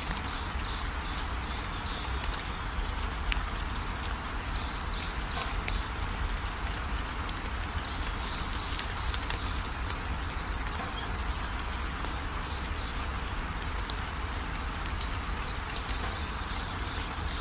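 Steady rain with a low rumble underneath, and small birds chirping high over it in short runs: near the start, around the middle and again near the end.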